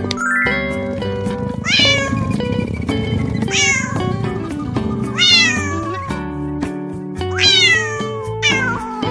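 Cat meowing about five times, each meow falling in pitch, over background music.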